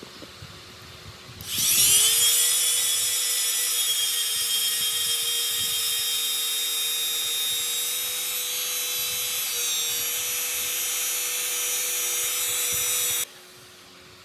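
Electric power tool running: its motor spins up with a quickly rising whine, holds a steady high-pitched whine for about twelve seconds, then cuts off abruptly.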